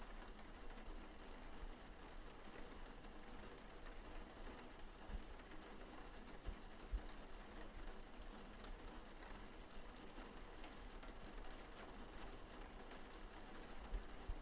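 Steady rain falling, a faint even patter with scattered droplet ticks. A few soft low thumps come through, the loudest about seven seconds in.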